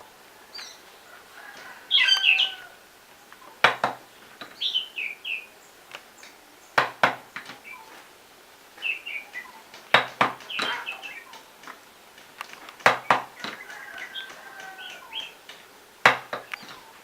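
Small birds chirping, with a sharp knock or tap about every three seconds.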